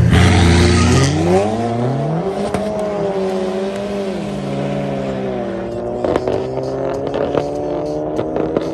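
Two cars launching hard from a standing start and accelerating away. Loud engine revs at the launch, then the engine pitch climbs, drops at a gear change about four seconds in, and climbs again as the cars pull away.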